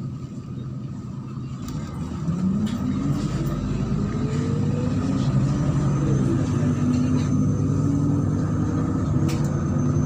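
MAZ-103 city bus pulling away, heard from inside the cabin: the engine and drivetrain get louder about two seconds in and rise in pitch for a few seconds, then drop as the gearbox shifts up, and run on steadily.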